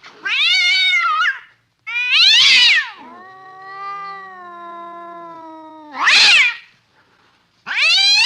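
Domestic cat meowing loudly in four sharp, pitch-bending calls. Between the second and third calls comes one long, lower, drawn-out yowl of about three seconds.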